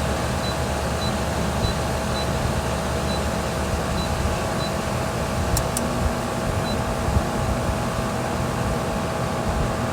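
Pool filter pump motor running steadily with a low hum and a steady whine. Two faint clicks come about five and a half seconds in.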